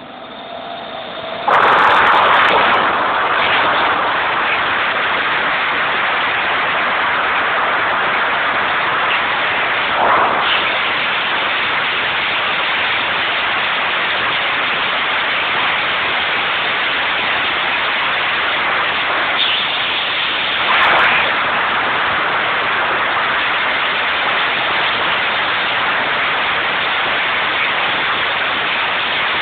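Loud, steady noise of ship's engine-room machinery running, starting abruptly about a second and a half in, with two brief swells along the way.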